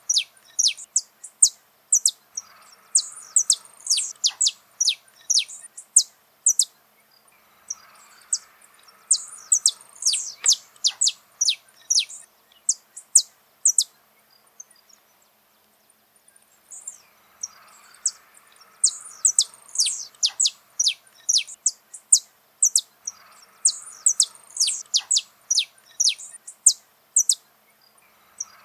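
Saffron finch singing: a series of song phrases, each a few seconds of rapid, sharp, high chirping notes, with short pauses between them and a longer pause about halfway through.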